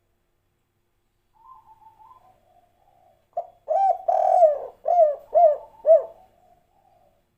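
Spotted dove (tekukur) cooing. A faint soft phrase comes first, then about a second and a half later a loud run of about five short coos, one of them longer, and the call fades out near the end.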